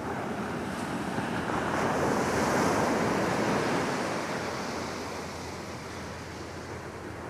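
Small ocean waves breaking on the beach: one surge of surf builds to its loudest two to three seconds in, then washes back and fades.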